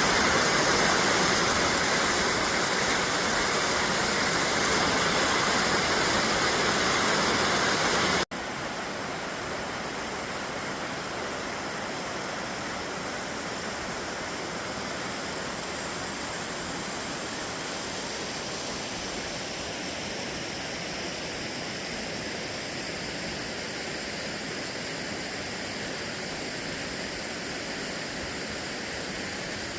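Steady rushing noise with no distinct events. About eight seconds in it cuts abruptly to a quieter steady rush.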